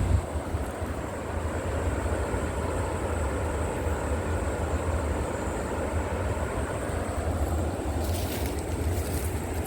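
River water flowing steadily, a continuous rushing with a deep low rumble. A few faint crackling clicks come near the end.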